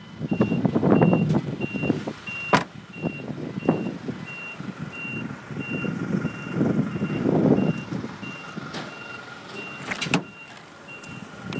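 An electronic warning beep repeating steadily about twice a second, over low rumbling noise, with two sharp knocks, one about two and a half seconds in and one near the end.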